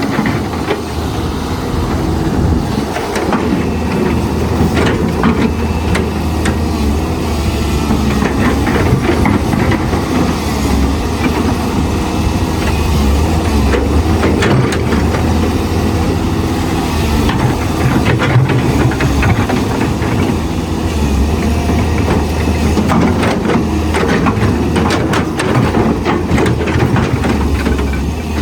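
Excavator working: the diesel engine runs steadily under load while short metallic clanks and knocks come repeatedly throughout.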